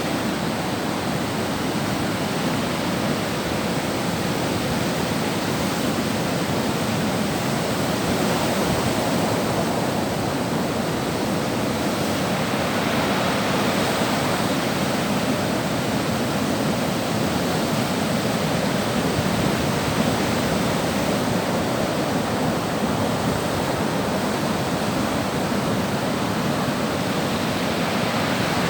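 Sea surf: a steady wash of waves on the shore, swelling and easing slowly every several seconds.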